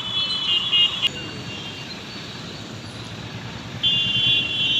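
Motor vehicle engines running with a steady low rumble. A high, steady multi-pitched tone sounds over it for about the first second and comes back near the end.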